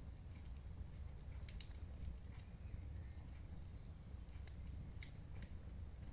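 Fire in a fireplace crackling: scattered sharp snaps and pops at irregular intervals over a steady low rumble.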